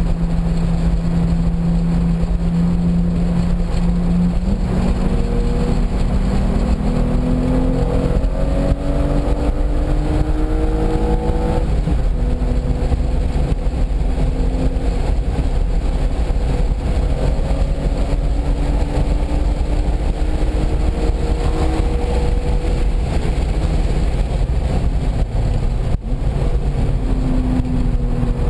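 Car engine at speed on a race circuit, its note climbing slowly under load, dropping at a gear change about twelve seconds in and climbing again, under a heavy constant rush of wind and road noise.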